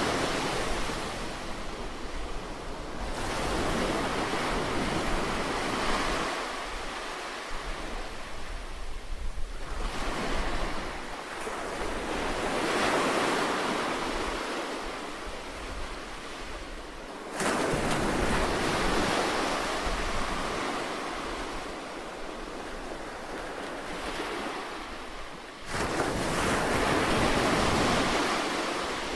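Sea waves breaking and washing up a shore, the noise swelling and ebbing every few seconds, with two waves breaking suddenly, about two-thirds of the way through and near the end. A low rumble runs underneath.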